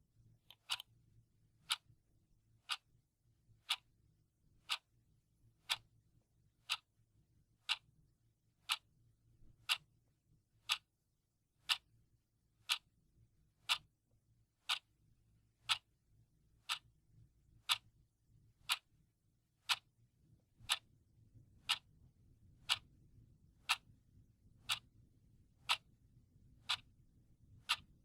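Clock ticking steadily, one sharp tick a second, over a faint low hum.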